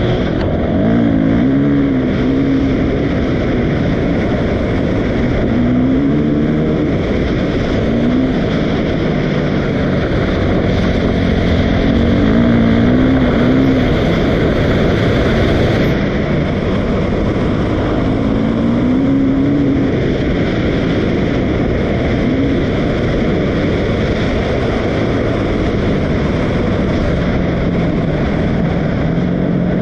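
Dirt bike engine running, its revs rising and falling every few seconds.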